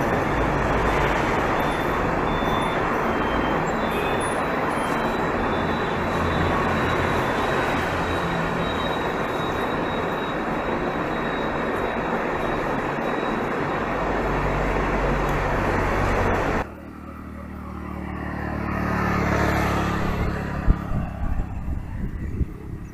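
Steady rushing of wind and road noise while cycling along a road. About two-thirds of the way in it cuts off suddenly, and a motor vehicle is heard passing, growing louder and then fading.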